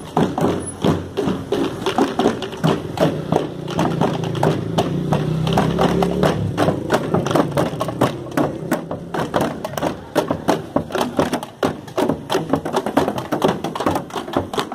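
Fanfarra marching band playing: fast, dense drum beats throughout, with low sustained notes held for a few seconds in the middle.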